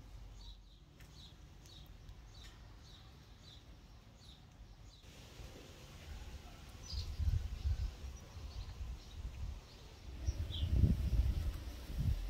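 Outdoor ambience: a small bird chirping repeatedly, about three short falling chirps a second, for the first five seconds. After that come stretches of low rumbling wind on the microphone, with a few more chirps.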